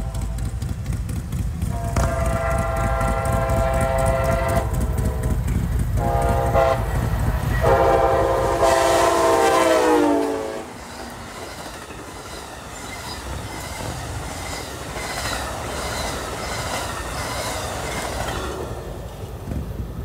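Amtrak passenger train sounding its multi-note horn as it approaches and passes: a long blast, a short one, then a long one whose pitch drops as the locomotive goes by. After that the cars rumble past with a regular clickety-clack of wheels over the rail joints, fading out near the end.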